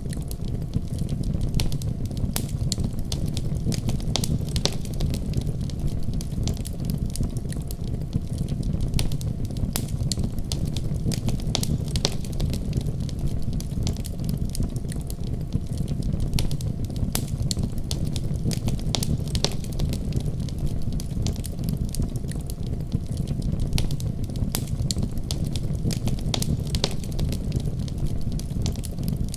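Wood fire crackling and popping, with many small sharp snaps over a steady low rumble of the flames.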